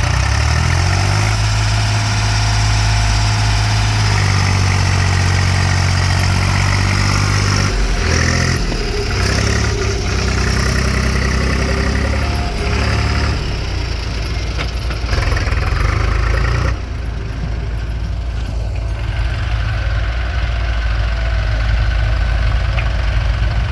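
Heavy diesel engine running, its speed rising and falling several times. The sound drops a little about two-thirds of the way through.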